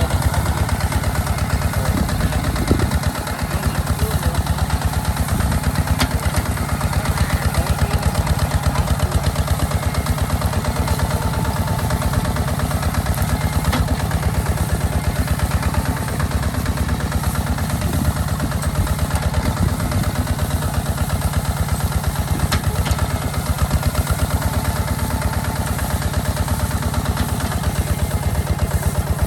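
Diesel engine of a Hinota HG Gold 155 DI hand tractor running steadily with an even, fast pulse of firing strokes while plowing.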